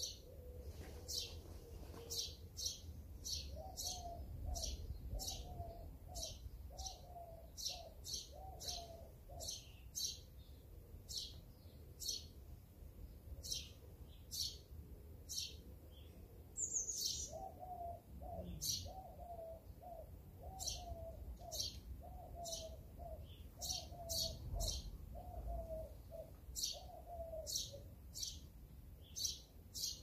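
Birdsong outdoors: a small bird repeats a short, high, sharp chirp about once or twice a second throughout, while another bird gives two long runs of lower repeated notes. A low rumble sits underneath.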